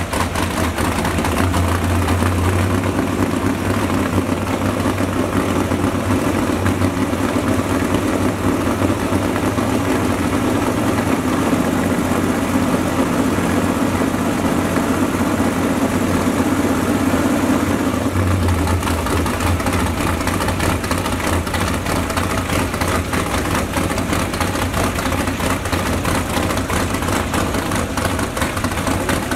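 Carbureted V8 crate engine on a run stand, running steadily through open header pipes and upright exhaust stacks. Its note shifts about two-thirds of the way through.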